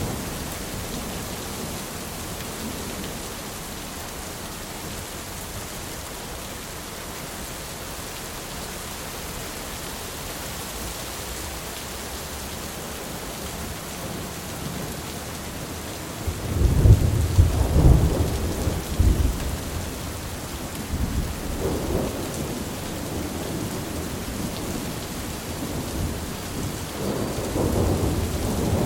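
Steady heavy rain hissing, with a sudden loud clap of thunder a little past halfway that rolls on as low rumbling in waves to the end.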